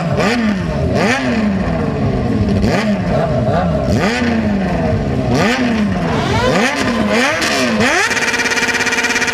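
Sport motorcycle engine being free-revved over and over, the pitch jumping up with each throttle blip and sliding back down, roughly once a second.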